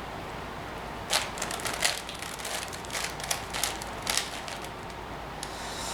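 Plastic layers of a 5x5 Rubik's cube clicking as they are turned, a quick irregular run of clicks that starts about a second in and stops at about four and a half seconds.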